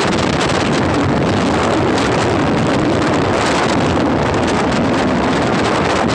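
Loud, steady wind noise buffeting the microphone on a moving motorbike.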